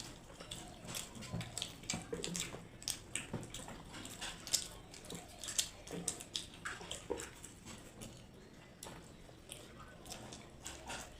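Close, wet eating sounds of people chewing soft kachuri and potato curry quickly: irregular clicks and lip smacks, several a second.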